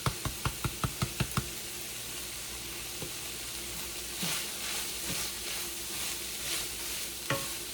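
Ground beef and onions sizzling in a frying pan. A quick run of sharp taps in the first second and a half, then stirring scrapes through the meat from about four seconds in.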